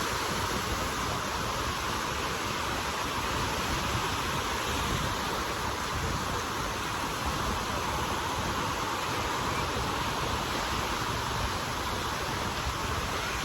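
Steady wash of ocean surf, with wind rumbling unevenly on the microphone.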